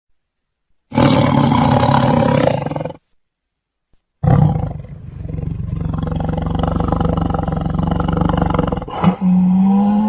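Tiger roaring twice: a roar of about two seconds starting about a second in, then after a short silence a longer roar of about five seconds. Just before the end a different steady, pitched sound begins.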